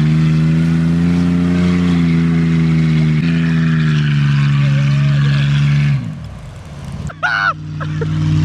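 Vehicle engine running at steady revs while driving through deep snow, stepping down in pitch about three seconds in. Near the end it fades out and a different engine takes over, idling steadily, with a brief shout over it.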